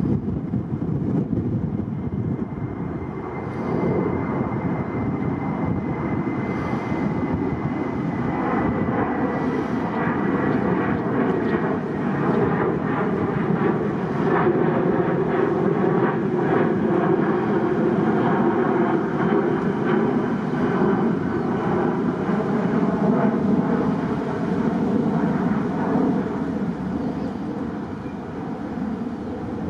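Boeing 737-800 jet airliner's twin CFM56-7B turbofans at takeoff power, a steady jet roar with a thin high whine that slowly falls in pitch over the first dozen seconds.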